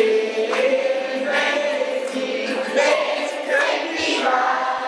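A choir singing in held, sustained notes.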